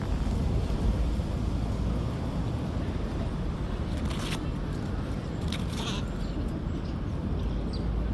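Steady low outdoor rumble, like a city background of wind and traffic, with a few short scratchy sounds about four and five and a half seconds in.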